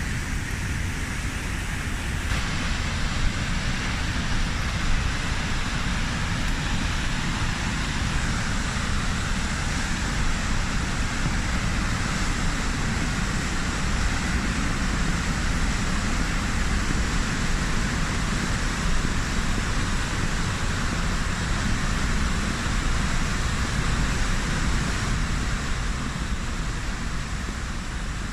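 The River Tees' waterfall at High Force, a steady rushing of heavy falling water with a deep low rumble.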